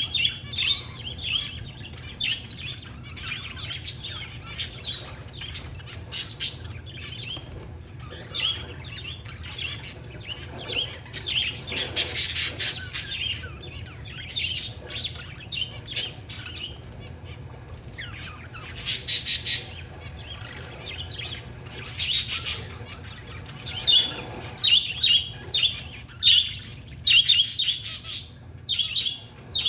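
Parakeets and zebra finches chirping and chattering: a steady stream of short high chirps, with several louder, buzzier calls in the second half.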